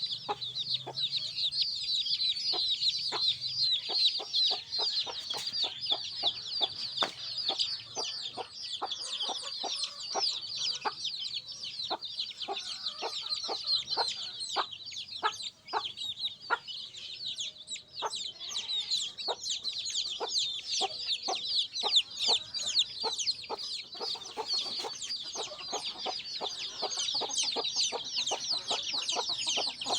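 A brood of baby chicks peeping continuously, many high chirps overlapping, with frequent short, lower-pitched notes scattered among them.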